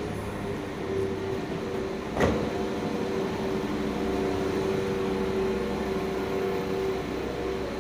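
Steady hum and drone inside a train carriage, low rumble with a humming tone over it. A single sharp knock about two seconds in.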